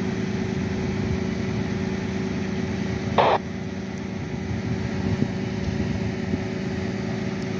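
Steady low rumble of idling vehicle engines with a constant hum, and a short sharp burst of noise about three seconds in.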